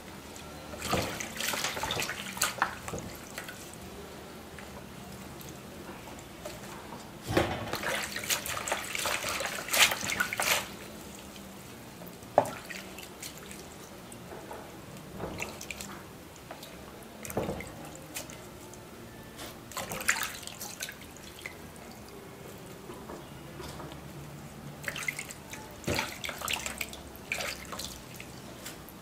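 Vegetables being washed in water: splashing and dripping in a few spells, with light knocks in between.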